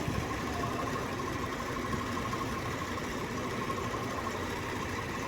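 Car engine idling steadily with the air conditioning running, an even hum with a faint high tone.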